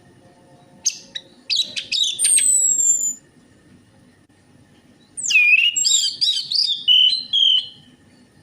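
Orange-headed thrush singing two phrases: the first opens with quick sharp notes and ends in high, falling whistles, and the second, about two seconds later, is a fast, varied warble.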